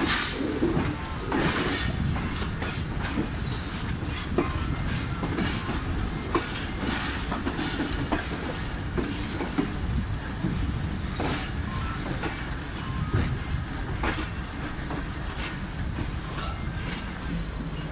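Moving passenger train heard from the open doorway of one of its coaches: a steady rumble of the running gear, with irregular clacks and knocks as the wheels run over the rail joints.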